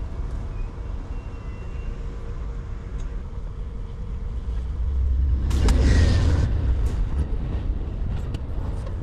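Steady low rumble of a train standing at a station platform, with a brief loud rush of hissing noise about six seconds in.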